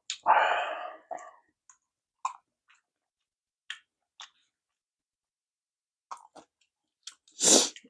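Close-miked mouth sounds of a person eating sushi: sparse wet clicks of chewing, with a louder breathy mouth sound in the first second and another near the end.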